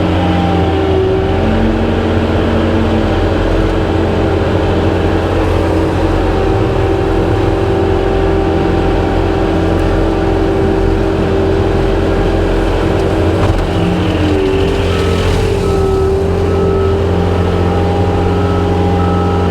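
Skid steer's diesel engine running steadily at working revs, with a steady whine on top, heard from close by.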